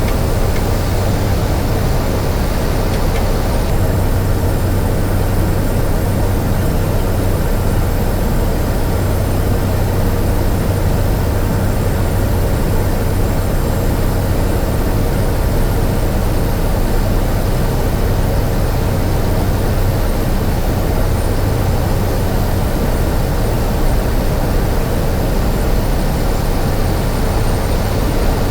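Cessna 208 Caravan's single Pratt & Whitney PT6A turboprop and propeller droning steadily, heard from inside the cockpit on final approach with full flaps set.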